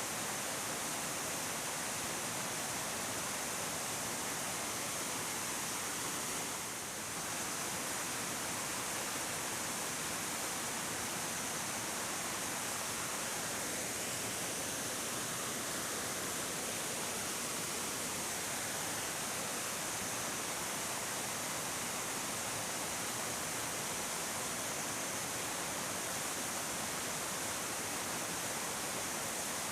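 A tall waterfall, about 30 m high with plentiful water, pouring down: a steady, even rush of falling water.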